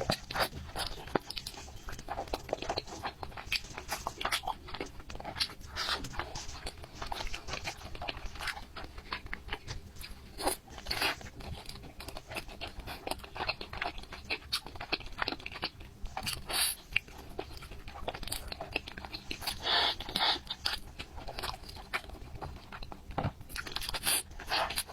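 Close-miked mukbang eating: a person biting and chewing, with crunchy, crackly bites and wet chewing. Louder clusters of crunching come about 11, 16 and 20 seconds in.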